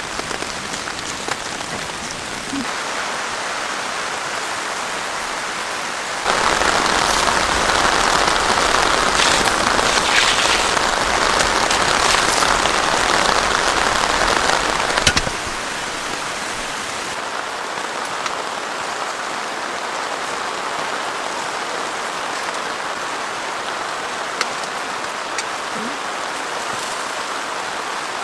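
Heavy rain falling, a steady hiss of water. It becomes markedly louder and fuller from about six seconds in, then drops back suddenly about fifteen seconds in.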